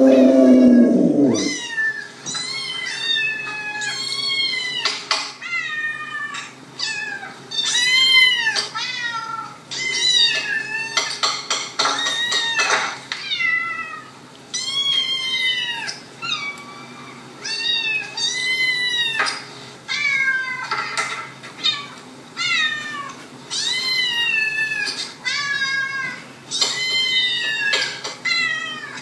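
Recorded cat meows played back, one after another, many calls each rising and falling in pitch. A pit bull's low howl trails off about a second in.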